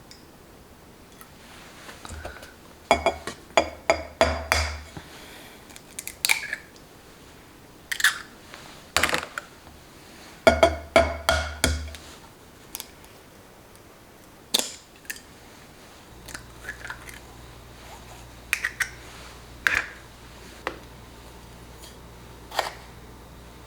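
Kitchen handling sounds: scattered clicks, knocks and clatters of utensils and dishes, coming in clusters. A low steady hum starts about two-thirds of the way through.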